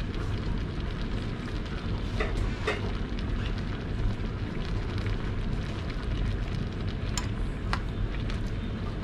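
Bopis in a wide metal pan with about two cups of liquid in it, sizzling and bubbling steadily on the stove, with a few sharp ticks.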